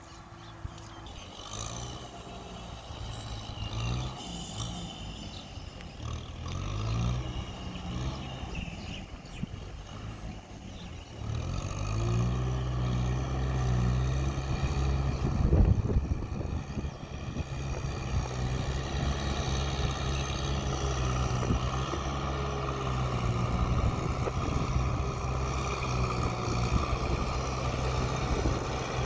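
Kubota tractor's diesel engine running under load while plowing, its pitch wavering at first, then louder and steadier from about a third of the way in.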